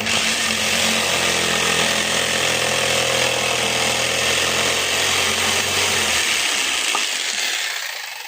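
Electric woodworking power tool running: it starts abruptly and runs steadily with a loud hiss over its motor's hum. The motor cuts out about six seconds in and the sound winds down.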